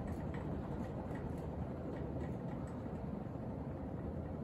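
Emerson Heat Fan K55 three-blade fiberglass 52-inch ceiling fan running steadily on high speed, its blades and motor giving an even whirr.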